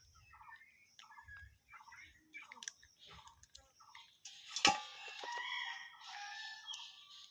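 Chickens calling: a string of short, repeated calls, then a louder, longer call about four seconds in that lasts around two seconds.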